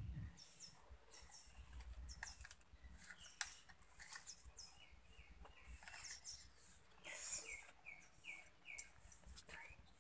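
Small birds chirping and twittering, with two runs of quick repeated short notes in the second half. A few sharp clicks stand out, the loudest near the end.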